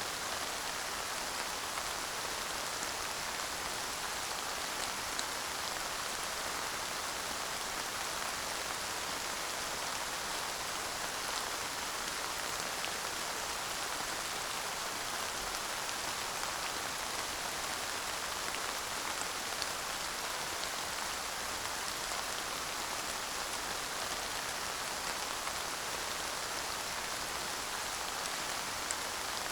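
Steady light rain falling, an even hiss of drops with faint tiny taps, no thunder.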